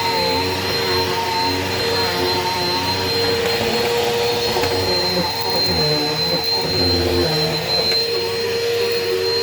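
Eureka Power Speed upright bagless vacuum cleaner running steadily, a loud motor whine with a high steady tone; its lower tones waver and shift about halfway through.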